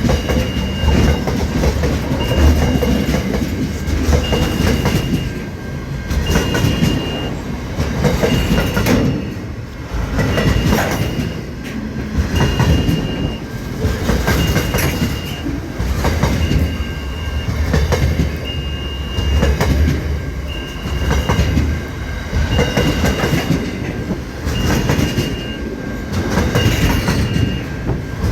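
Aurizon freight train wagons rolling past, with a heavy rumble and clattering wheels that swell and fade about every two seconds. A high tone pulses on and off at about the same pace.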